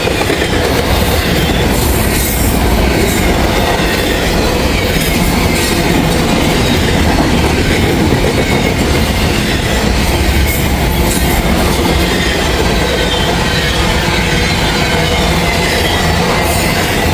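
Long Norfolk Southern intermodal freight train's container cars rolling steadily past close by: a loud rumble of wheels on rail with clacking over the joints and a faint wheel squeal that slides in pitch.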